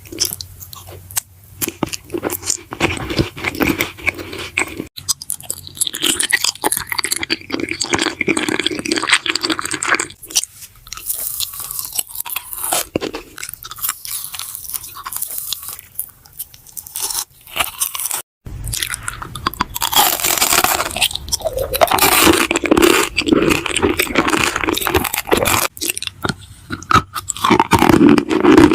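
Close-miked eating sounds: crunching bites and chewing, with a dense run of crisp crackles and clicks. It breaks off for a split second about two-thirds of the way through, then goes on.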